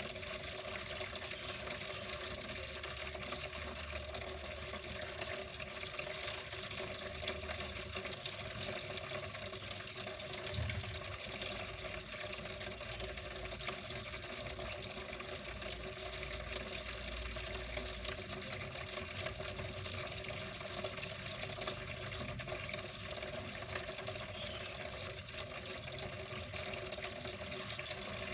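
Water flowing steadily and evenly, a continuous rush of running water with no pauses.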